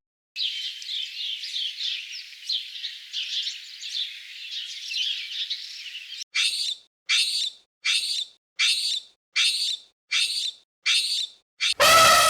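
Birds chirping and twittering in a dense high chatter, then a run of about eight short, high calls evenly spaced. Near the end a loud, harsh animal call starts.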